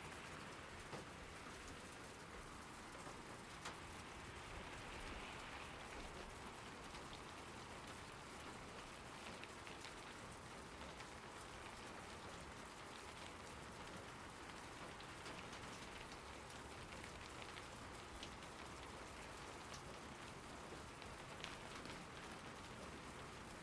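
Steady rain falling, a soft even hiss with scattered sharper drop ticks.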